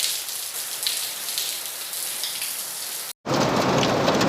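Heavy rain pattering steadily. About three seconds in it cuts off briefly and comes back as a louder, denser downpour with many sharp ticks, rain mixed with falling hailstones.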